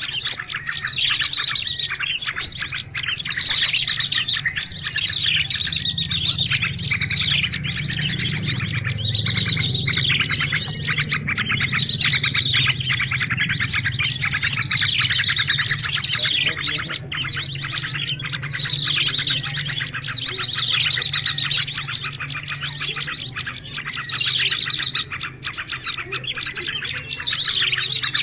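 Dense, unbroken chorus of many small birds chirping and twittering, their quick calls overlapping, with a faint low hum underneath: a bird-lure recording for calling in small birds.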